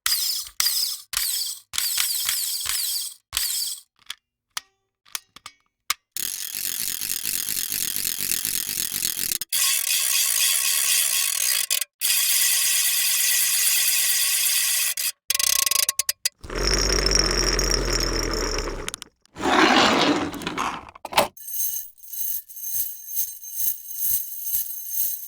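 A string of separate foley sound effects: a few seconds of sharp clicks and knocks, then two long stretches of fast mechanical ratcheting, a short loud low buzz, a brief noisy swell, and a run of quick rhythmic mechanical pulses near the end.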